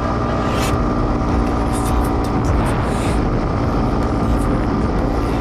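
Dirt bike engine running at a steady speed, with scattered short clicks over it.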